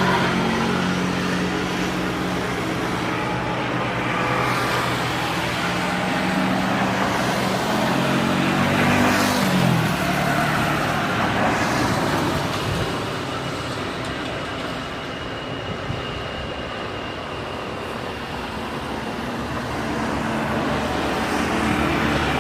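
Road traffic running steadily, with one vehicle's engine passing close about nine seconds in, its pitch dropping as it goes by.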